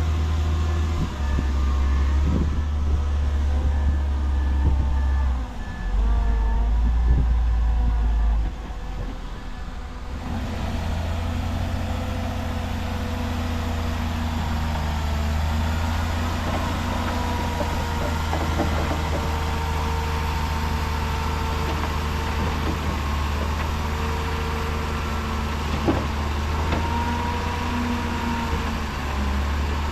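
Heavy diesel earthmoving machinery running with a deep, steady rumble. A reversing alarm beeps at an even rate for about the first ten seconds, then stops while the engine keeps running.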